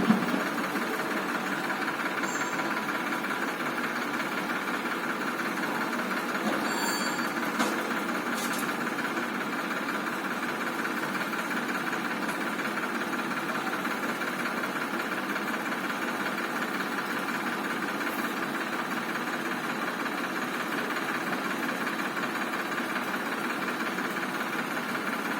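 Tractor engine running steadily without any change in speed.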